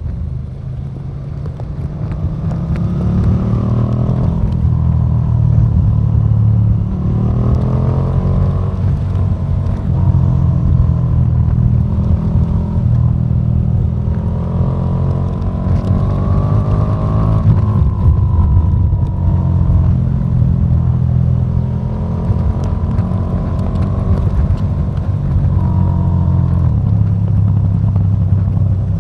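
KTM 1290 Super Duke R's V-twin engine under way, revving up through the gears and easing off several times, with rising pitch sweeps a few seconds apart.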